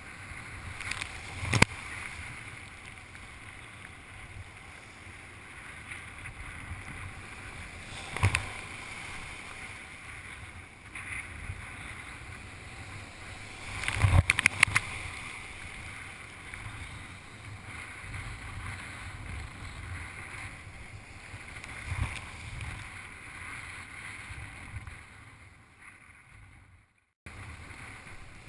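Surf kayak on the waves: water rushing and wind on the microphone, with sharp knocks and splashes every several seconds and a quick cluster of them about fourteen seconds in. The sound drops out for a moment near the end.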